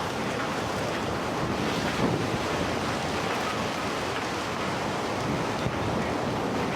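A steady rushing noise that holds at an even level throughout, with no pitched tone or distinct impacts.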